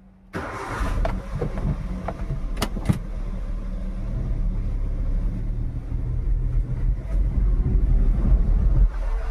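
Car driving, heard from inside: a low engine and road rumble comes in suddenly and slowly grows louder as the car gets under way, with two sharp clicks about two and a half seconds in.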